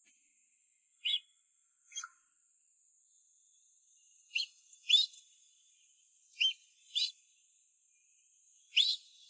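A hatching call duckling peeping: seven short, high peeps, several falling in pitch and mostly in pairs, over a faint steady hiss.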